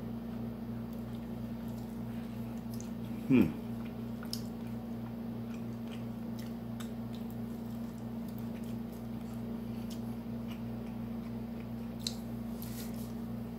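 Chewing and wet mouth sounds of someone eating soft, cheesy eggs and chimichanga, with faint scattered clicks, over a steady low hum. A short, loud sound that falls sharply in pitch comes about three and a half seconds in.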